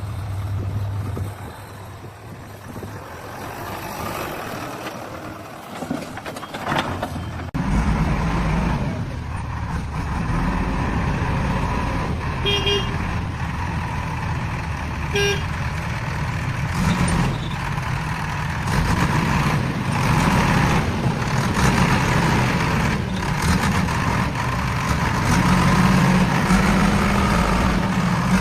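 Heavy vehicle engine running steadily, with two short horn toots in the middle.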